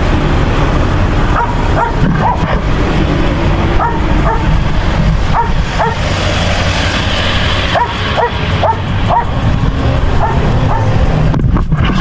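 A dog yipping and barking repeatedly in short, irregular calls over a steady low engine rumble.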